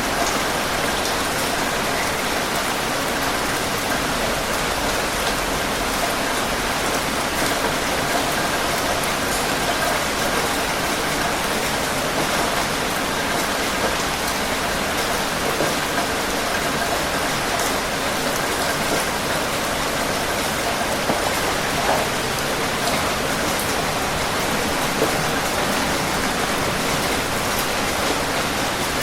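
Steady heavy rain falling and pattering on surfaces, an even dense hiss with occasional distinct drops.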